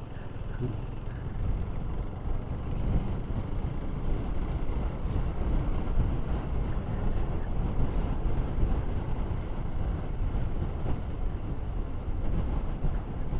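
Steady low rumble of wind buffeting the microphone on a KTM 390 Duke motorcycle under way.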